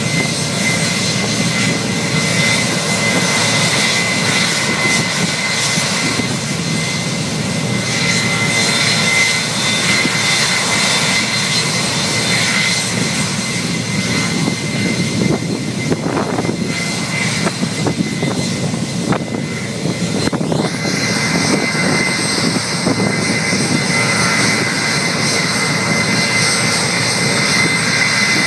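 Boeing 757 jet engines running at high power during a ground run-up: a steady loud roar with a high whine on top. About twenty seconds in, a whine sweeps upward in pitch and higher tones join it as the engine setting changes.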